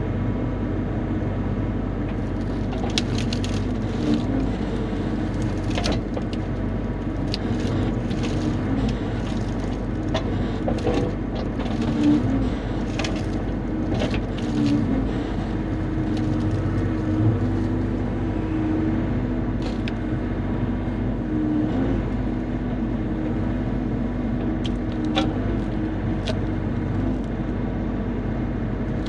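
Bobcat E35 mini excavator's diesel engine running steadily while it works, with many scattered sharp clicks and knocks over it.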